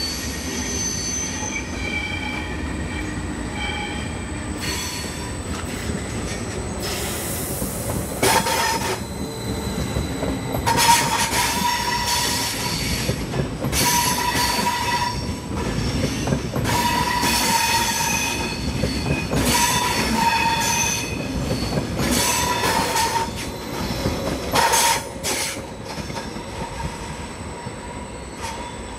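Double-deck passenger trains rolling slowly over points and curves. The wheels squeal again and again in short high-pitched squeals, with clanks as they cross the switches.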